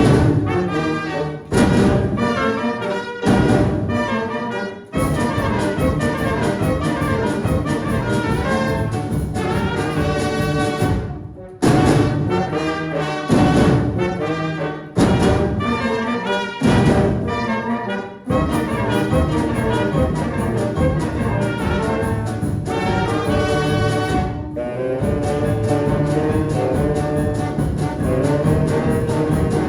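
Children's brass band playing a piece, trumpets and trombones carrying the melody in phrases with short breaths between them.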